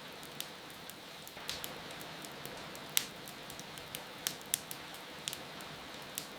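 Steady rain hiss with a wood fire crackling over it: irregular sharp pops and snaps, the loudest about three seconds in.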